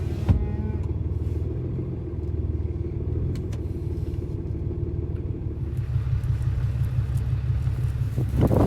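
Truck engine running steadily, getting somewhat louder about six seconds in, with a short knock near the start.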